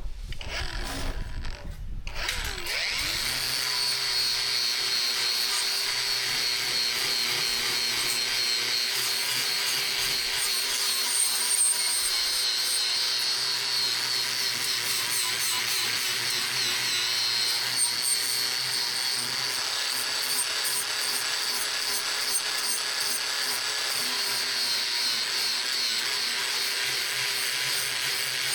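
An electric power tool spins up about two seconds in, then runs steadily with a high whine and a constant hiss, working the steel of an old saw blade being shaped into a knife.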